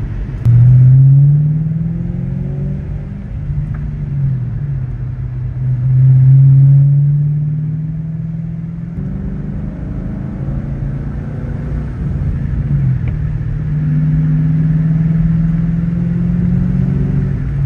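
Ford Mustang GT's V8 engine accelerating and shifting through gears. The engine pitch climbs, drops at each shift, and climbs again, with loud bursts of revs about half a second in and again around six seconds.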